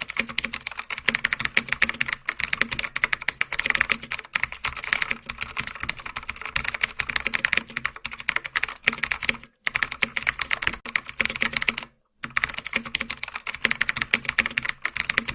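Rapid, continuous keyboard typing clicks, stopping twice for a moment of silence, about nine and a half and twelve seconds in.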